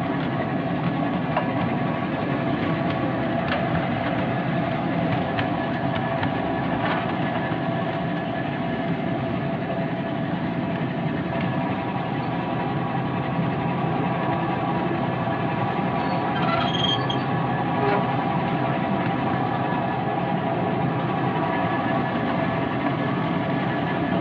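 Ride-on miniature railway train running along the track, heard from a carriage behind the locomotive: a steady drone of the locomotive and wheels on the rails, with a brief high squeak about two-thirds of the way through.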